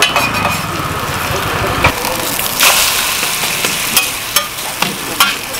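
Korean vegetable pancakes (jeon) sizzling in oil on a flat griddle, a steady hiss. A steel spatula scrapes and taps against the griddle several times, with sharp clicks from about two seconds in.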